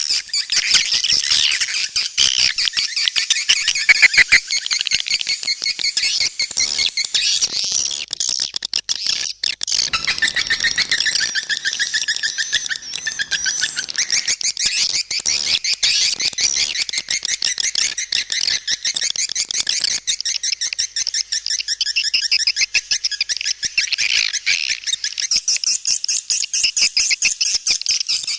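Edible-nest swiftlets twittering in a dense, unbroken stream of fast chirps. This is a swiftlet calling-sound recording, the lure played from swiftlet houses to attract the birds to roost and nest.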